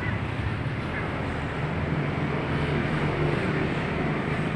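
Steady street traffic noise with the low hum of running engines.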